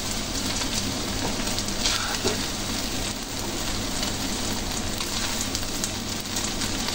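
Fried flat rice noodles (kuey teow) and bean sprouts sizzling with a steady hiss in a hot wok just off the flame, as tongs lift them out with a few light clicks.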